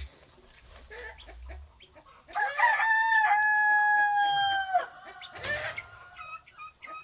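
A rooster crows once, a long held call of about two and a half seconds starting a couple of seconds in, with chickens clucking around it.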